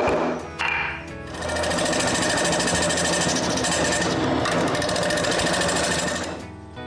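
A gouge cutting a spinning wooden mallet blank on a wood lathe: a dense, rapidly pulsing cutting noise lasting about five seconds, after two short bursts in the first second. Background music plays underneath.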